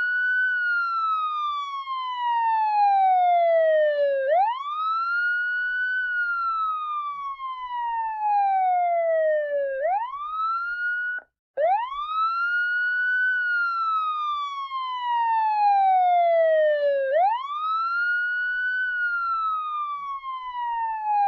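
Electronic siren wailing: each cycle jumps quickly up in pitch, then slides slowly down over about four seconds, and repeats about every five and a half seconds. About eleven seconds in the sound cuts out for a moment and the same pattern starts over.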